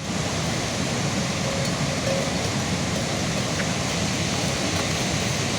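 Steady rain falling hard: an even, unbroken hiss with faint scattered drop ticks.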